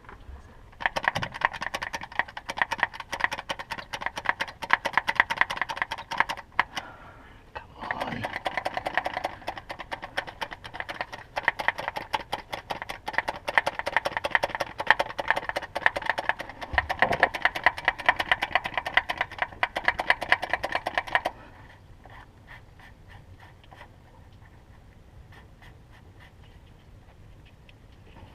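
Fast, steady mechanical clicking that runs for about twenty seconds, breaks off briefly near a quarter of the way in, and stops well before the end.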